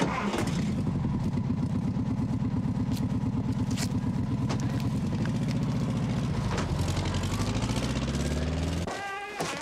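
A motor vehicle's engine running at a steady low pitch, then rising in pitch as it speeds up about two-thirds of the way through, and cutting off abruptly near the end.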